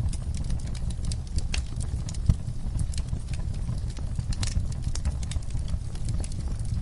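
Wood fire crackling and popping: a steady low rumble of flames with many small sharp crackles, and one louder pop a little over two seconds in.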